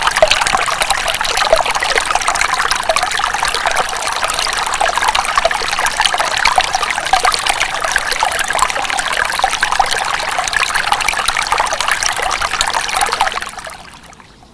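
Water trickling and splashing in a thin, steady stream, fading out near the end.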